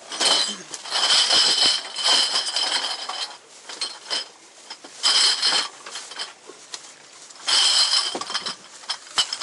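Glass bottles clinking and rattling together as a bag of them is rummaged through, in several bursts with pauses between.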